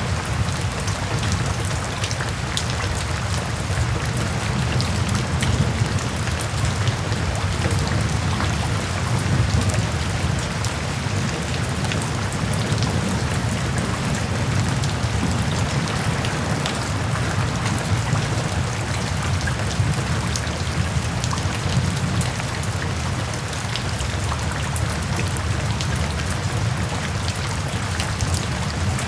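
Steady rain, a dense patter of individual drops over an even shush, with a steady low rumble underneath.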